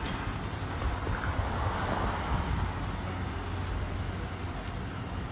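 Steady vehicle noise at the roadside: a low engine hum under an even rush, with wind on the microphone.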